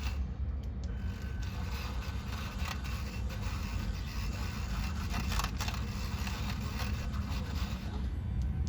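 Milk being frothed in a cup: a steady low whir with scattered light scrapes and clicks.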